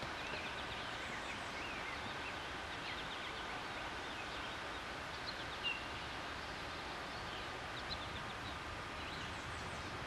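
Small birds chirping and twittering in short, scattered calls over a steady outdoor background hiss, with one faint knock about five and a half seconds in.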